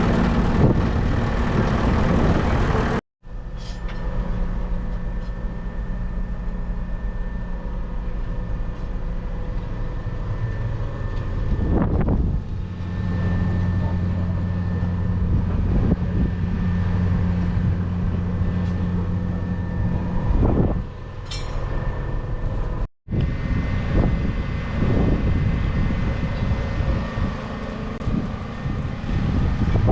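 JCB Fastrac 4220 tractor's 6.6-litre six-cylinder diesel running steadily, with a low rumble and a steady hum. The sound cuts out abruptly twice, about three seconds in and about seven seconds before the end.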